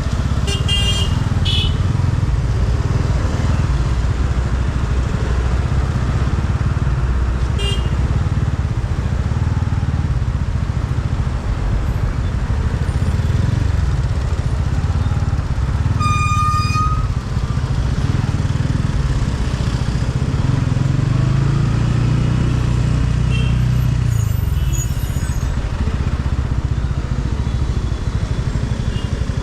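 Motorcycle engine running steadily under a continuous low rumble while riding through traffic. Vehicle horns honk several times, the loudest about sixteen seconds in.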